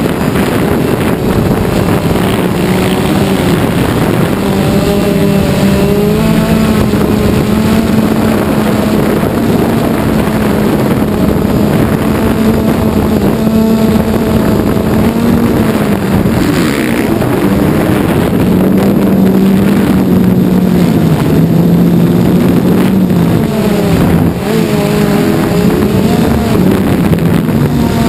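Multirotor drone's motors and propellers humming steadily, with several close pitches that waver slightly up and down.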